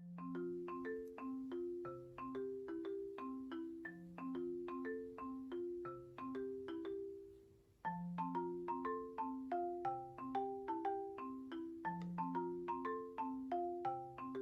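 Background music: a light marimba-style tune of short struck notes over a bass line, pausing briefly a little past halfway and then starting again.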